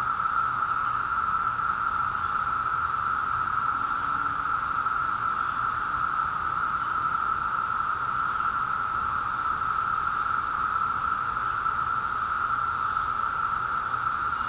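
Chorus of 17-year periodical cicadas, a steady, unbroken high drone. Faint rapid high ticking is heard over it for the first few seconds.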